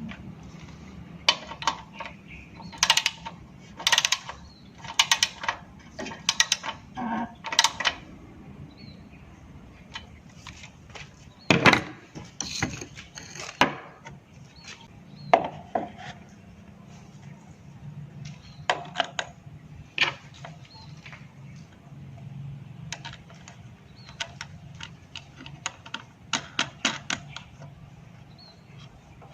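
Irregular metallic clicks, clinks and knocks of hand tools and small engine parts being handled, some in quick clusters and the loudest a little under halfway through.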